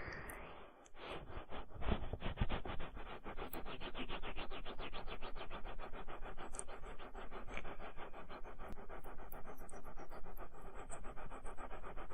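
Rapid, even scratching strokes rubbed close against a microphone, many a second, as in ear-cleaning ASMR; they start about a second in and keep up steadily.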